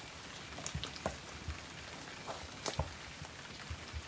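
Faint, scattered small clicks and rustles of a plastic toy horse being handled and moved over a shaggy rug, with one sharper tap about two and a half seconds in.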